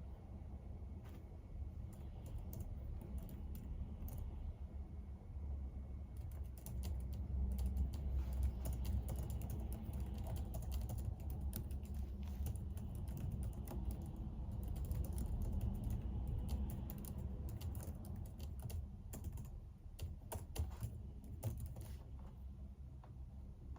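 Typing on a computer keyboard: irregular runs of keystroke clicks, sparse at first, thick through the middle, and stopping shortly before the end.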